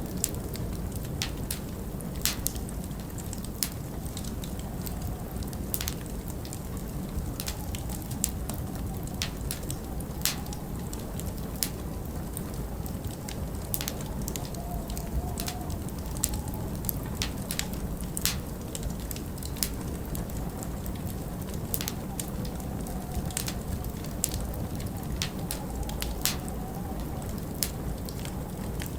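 Wood fire crackling, with sharp irregular pops one or two a second, over a steady low rumble of wind with a faint wavering whistle.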